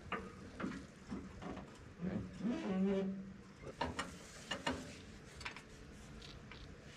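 Scattered metallic clicks and knocks of hand work on a tractor, with a short low drawn-out sound about two seconds in.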